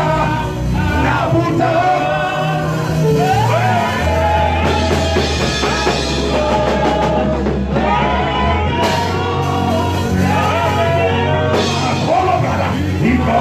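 Worship music: singing over a band with sustained bass notes.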